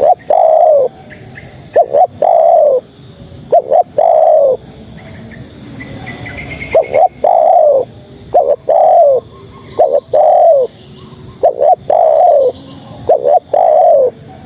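Spotted dove cooing over and over: each phrase is one or two short notes and then a longer, falling coo. It pauses for about two seconds in the middle, and a faint high chirp is heard during that pause.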